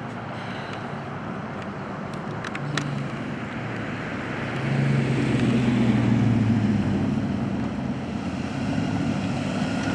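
Road traffic passing on a highway: steady tyre and engine noise, with one vehicle's engine hum growing louder about halfway through, then easing off.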